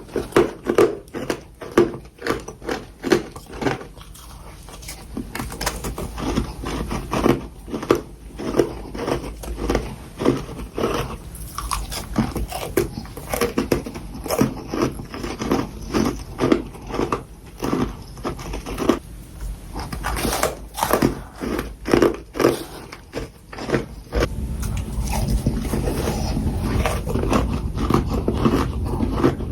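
Close-up crunching and chewing of mouthfuls of powdery freezer frost, in rapid runs of crisp crunches with short pauses between mouthfuls.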